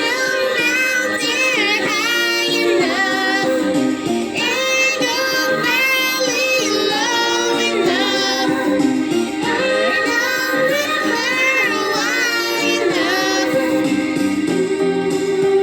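A high, child-like or female singing voice sliding through wordless, ornamented vocal runs over a steady backing track of sustained notes.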